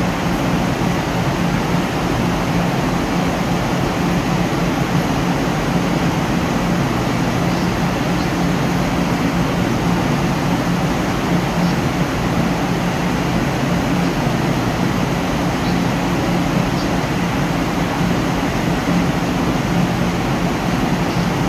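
Steady idling drone of a stationary Mugunghwa-ho passenger train at the platform, its engine and air-conditioning running, with a few faint ticks.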